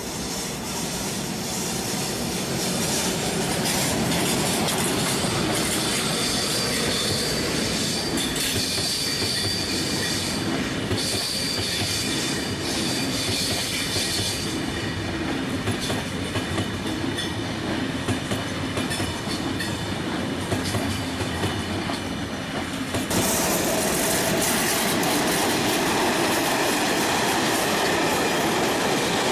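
Electric locomotive-hauled passenger trains passing on a main line: a steady rumble of wheels on rails with clicking over the joints, and a steady high-pitched squeal over it in the first part. About three-quarters of the way through the sound changes abruptly to a louder rumble as another train passes.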